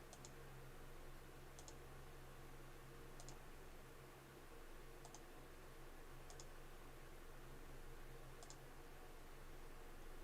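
Computer mouse clicks: six quiet double ticks, a second or two apart, over a faint steady low hum.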